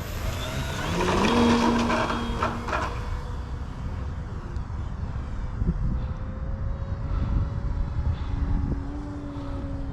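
Electric RC airplane's brushless motor (E-flite 4250, 1250kv) and 14x7 wooden propeller throttling up, its whine rising in pitch over the first second or two and loudest just after, then settling into a steady drone whose pitch drifts slightly as the plane flies.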